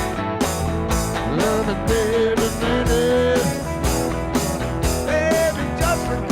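Country-rock band playing an instrumental passage: a lead guitar line with bending notes over bass and a steady drum beat.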